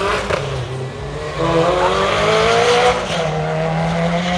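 Honda B18-engined Mini drag car accelerating hard off the line: the engine note climbs, drops back at a gear change about three seconds in, and climbs again.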